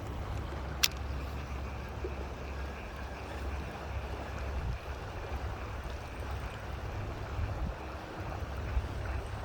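Steady low outdoor rumble and hiss, with one sharp click about a second in.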